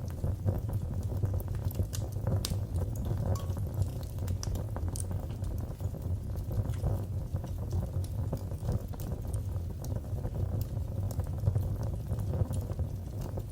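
Wood fire burning in a fireplace: a steady low rumble of flames with frequent irregular crackles and snaps.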